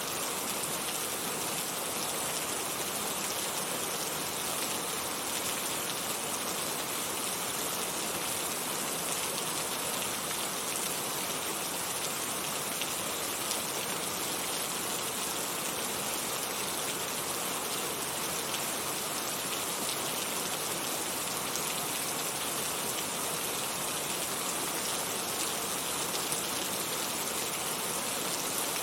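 Heavy rain falling steadily, a dense even hiss of drops with fine patter.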